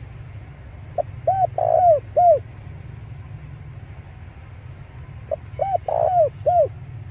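Male spotted dove (tekukur) cooing: two call phrases about four seconds apart, each a short opening note followed by three or four rounded coos. A steady low hum runs underneath.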